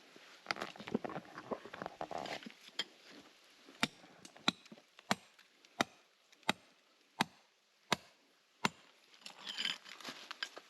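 Hand tool striking stonework: eight sharp, evenly spaced blows about 0.7 s apart, after a couple of seconds of scraping and rustling of loose rubble.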